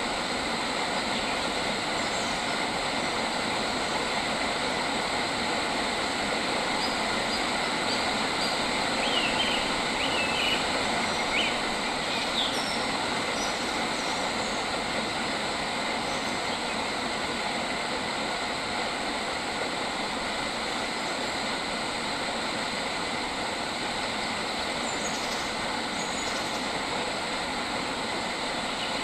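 Steady, dense insect chorus of high, even tones over a continuous hiss, with a few short bird chirps about nine to twelve seconds in and again near the end.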